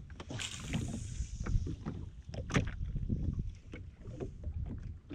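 Water slapping and lapping against the hull of a jetski sitting on the water, with wind rumbling on the microphone and scattered small knocks and splashes.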